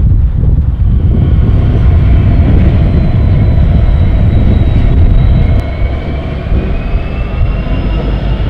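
Norfolk Southern diesel freight train rumbling by, loud and low, with a faint whine that rises slowly in pitch.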